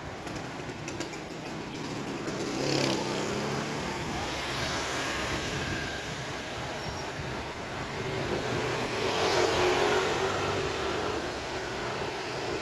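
Road vehicles passing along a village street: one goes by about three seconds in and a louder one near the end, over a steady background of street noise.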